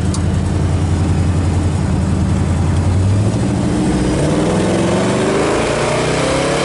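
1966 Chevelle SS396's 396 cubic-inch big-block V8 running at low revs, then accelerating from about four seconds in, its note climbing steadily.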